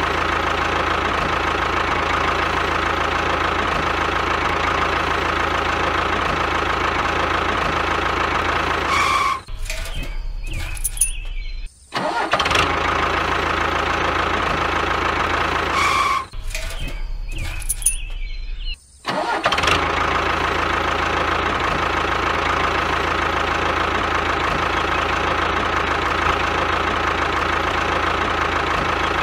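Tractor-type engine running steadily with a constant drone. It breaks off twice, about nine and sixteen seconds in, for a couple of seconds of rough, uneven running with brief dropouts, then settles back to the same steady run.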